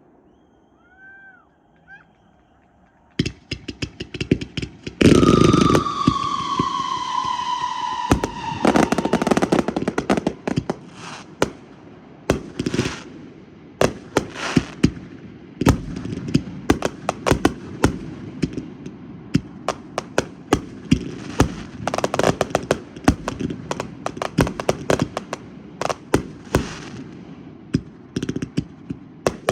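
Fireworks and firecrackers going off. After a few quiet seconds a rapid string of crackles starts, then a loud firework with a whistle that slowly falls in pitch for about three seconds, followed by many irregular pops and bangs.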